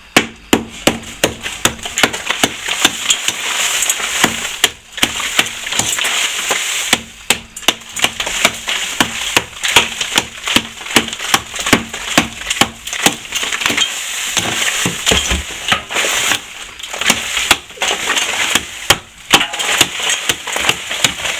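Old plaster being scraped and chipped out by hand: a steady scraping with many sharp knocks and cracks, several a second, as loose plaster and paint build-up break away.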